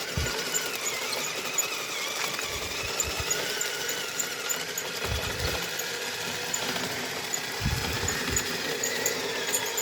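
Kyosho Blizzard 2.0 RC tracked snow vehicle driving: the electric drive whines, its pitch wandering up and down with the throttle, over track and gear clatter, with a few low thumps about three, five and eight seconds in.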